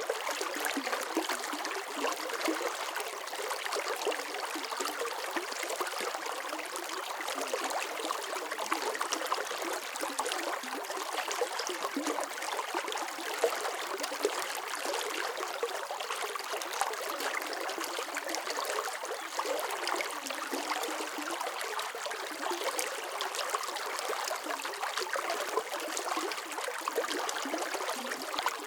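Running water flowing and trickling steadily, a light, even babble without any deep rumble.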